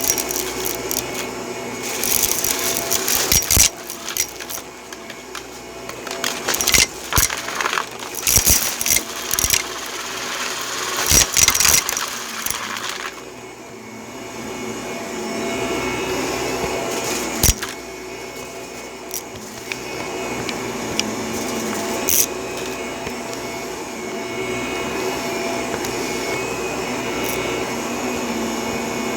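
Vacuum cleaner running on carpet. For roughly the first half, irregular crackling and clattering sounds over the motor, then a steady run.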